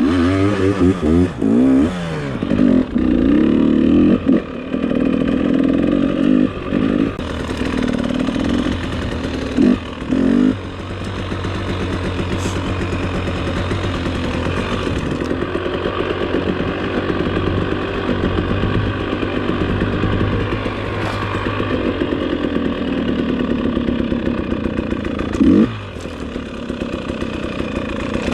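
Dirt bike engine revving hard in repeated surges, broken by short throttle cut-offs, for about the first ten seconds. It then runs steadier at part throttle, with one quick rev near the end.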